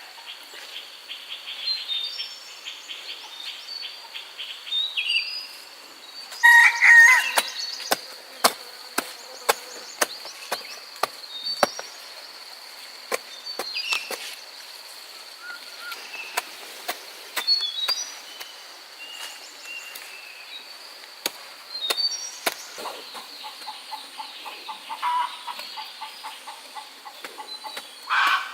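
Chickens around a farmyard: a rooster crows loudly about seven seconds in, and hens cluck near the end. A steady high insect drone runs underneath, with scattered sharp clicks.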